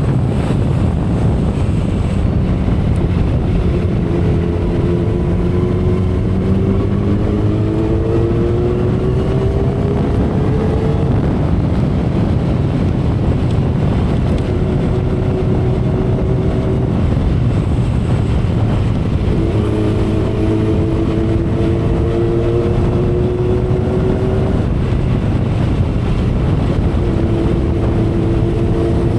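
A 2012 Kawasaki Ninja ZX-10R's inline-four engine running at speed under heavy wind noise, its note rising slowly in pitch in several stretches as the bike pulls, easing off in between.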